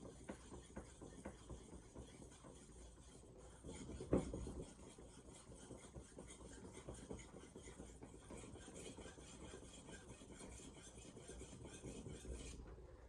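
Santoku knife's VG10 steel edge being stroked back and forth on a Shapton Glass 2000-grit sharpening stone: a faint, continuous scraping of many quick strokes. A louder knock comes about four seconds in, and the scraping stops shortly before the end.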